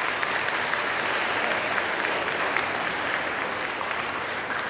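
Audience applause, many hands clapping, swelling and then easing off near the end.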